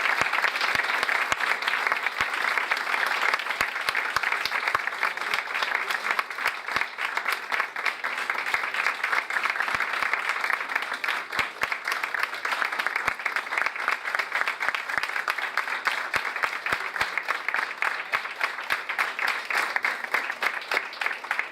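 Theatre audience applauding steadily, many hands clapping in a dense continuous patter that thins a little toward the end.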